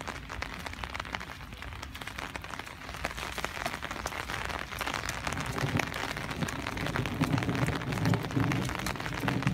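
Rain falling: a steady hiss thick with small drop ticks. A lower sound joins from about halfway and the whole grows louder.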